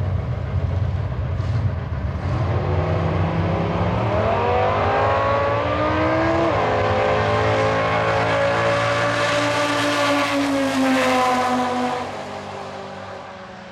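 Dodge Challenger Drag Pak's V10 engine accelerating hard: a low rumble, then a rising wail from about four seconds in, a sudden drop in pitch at a gear shift, climbing again, then fading quickly near the end as the car pulls away.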